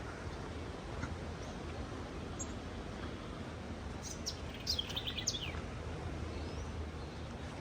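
A bird gives a quick run of short, falling chirps about four to five seconds in, over a steady low rumble of sea surf.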